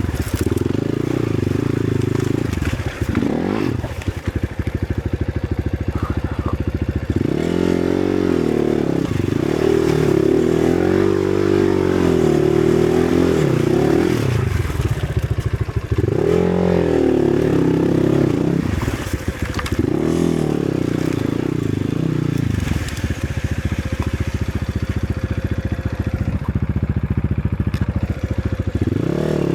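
Enduro dirt bike engine revving up and down under load, surging in several bursts of throttle, with some scraping and clattering along.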